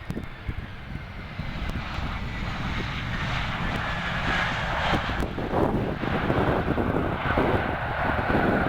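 Jet airliner's engines growing steadily louder as the aircraft passes, with a high whine that slowly falls in pitch over a low rumble.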